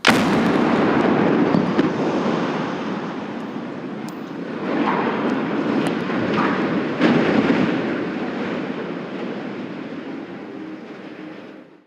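Explosive demolition of a rocket engine test stand: a sharp blast at the very start, then a long, loud noise with a few more cracks about two, four and seven seconds in, slowly fading before it cuts off.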